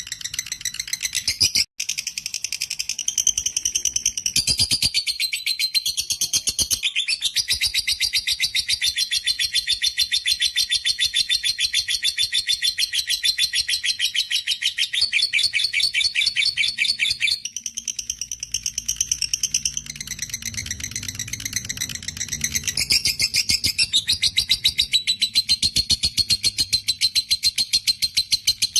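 Lovebird 'ngekek': a long, rapid, shrill chattering trill of fast repeated notes, going on almost unbroken for many seconds at a stretch, with brief breaks near the start and about two-thirds of the way in.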